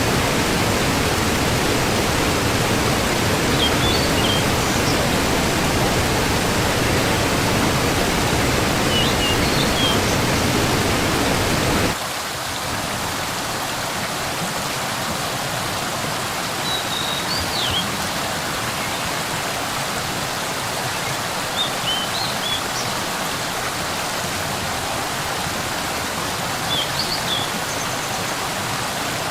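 Waterfall rushing steadily. About twelve seconds in, the rush turns thinner and loses its low rumble. A few short high chirps come through now and then.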